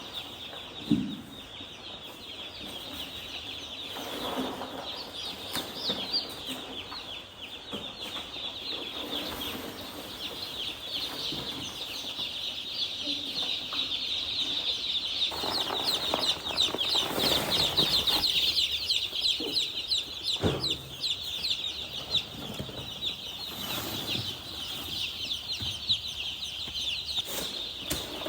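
A brood of young chicks cheeping without pause, many high peeps overlapping, with a few brief rustling bursts and a sharp knock about a second in.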